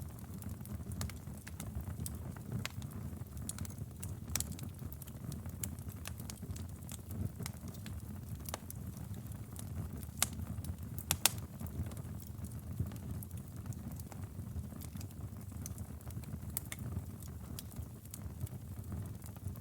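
Wood fire burning in a fireplace: a steady low rumble of the flames with irregular crackles and pops from the logs, two louder snaps about halfway through.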